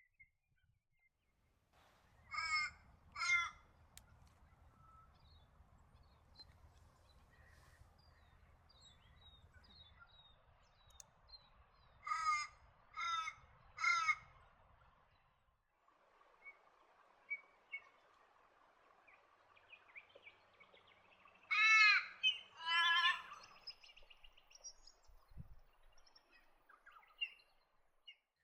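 A bird calling harshly: two calls, then a group of three about ten seconds later, then two more near the end, over faint low rumble.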